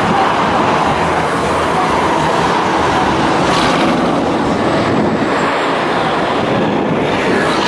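A car's engine and exhaust running loudly and steadily as it drives off.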